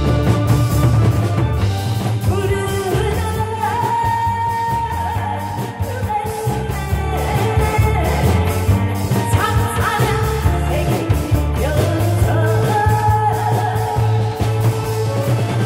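Live singing of an upbeat song over loud accompaniment with a heavy bass beat, the singer holding long notes.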